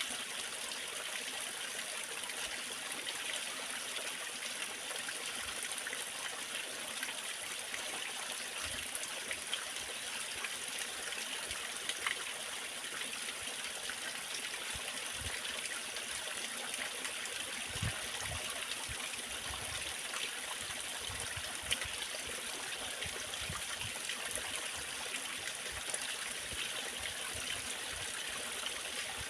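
Waterfall: falling water splashing and rushing as a steady hiss, with occasional soft low splashes.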